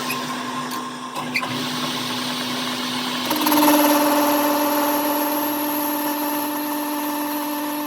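A machine motor with a steady hum; about three seconds in, a louder steady whine starts and runs evenly until it cuts off near the end.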